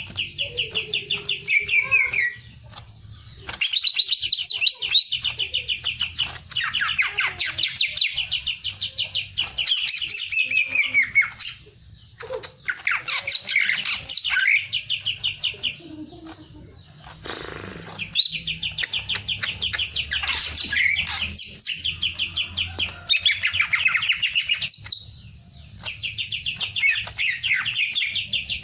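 Songbird singing long phrases of very fast, rattling trills mixed with sweeping whistled notes, each phrase lasting a few seconds with short pauses between. A brief hissing noise about 17 seconds in.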